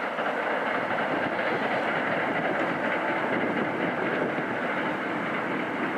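Hankyu electric train running across a railway bridge, a steady noise of its wheels on the rails.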